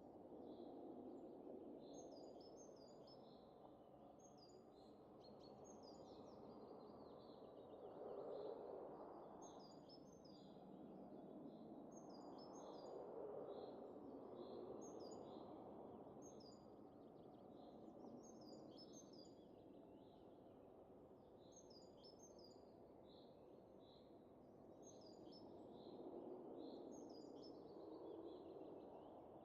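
Faint wind rising and falling in soft gusts, with small birds chirping in quick, repeated high calls throughout.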